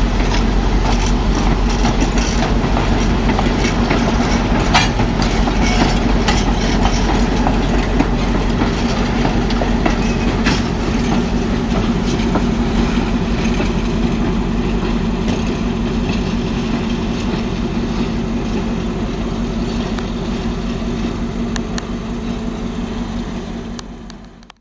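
Passenger train rolling at low speed, its wheels clicking and knocking on the rails over a steady low hum. The sound fades over the last several seconds and cuts off suddenly at the end.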